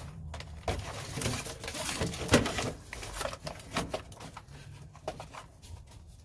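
Rustling and crinkling of a sheet of sound-deadening material being smoothed and pressed into place by hand, loudest about two seconds in, then quieter.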